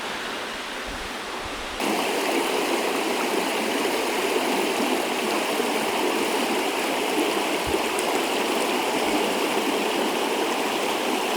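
A river flowing: a steady rush of moving water, which gets louder about two seconds in.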